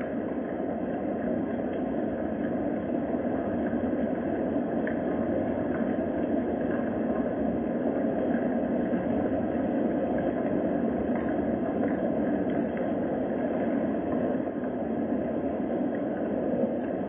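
Steady rain, a dull, even hiss with a few faint ticks.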